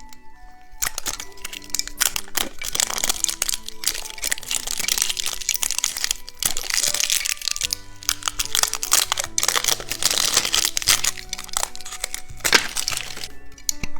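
Candy wrapper crinkling and crackling as a sweet is unwrapped and handled, with a sharp crack near the end, over soft background music.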